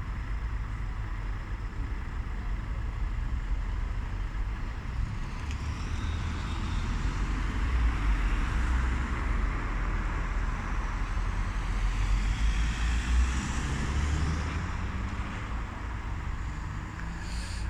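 Road traffic noise: a road vehicle running past with a heavy low rumble, growing louder through the middle and easing off near the end.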